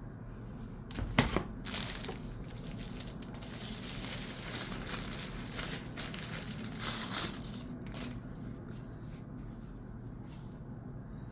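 Crinkling and crushing noises: a sharp click about a second in, then a dense stretch of crackling that thins out to scattered faint clicks in the second half.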